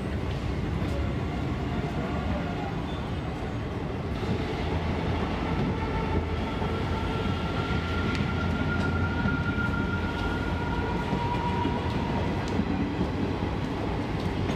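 Kanchankanya Express passenger coaches rolling slowly along the platform as the train pulls out, a steady low rumble of wheels on rails that grows slightly louder after a few seconds. A faint high steady whine sounds for a few seconds in the middle.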